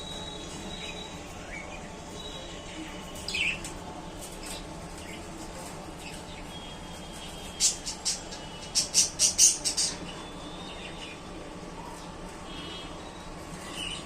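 Pet budgerigars chirping: a single chirp, then a quick run of about seven sharp, high chirps a few seconds later, and a faint chirp near the end, over a steady low background hum.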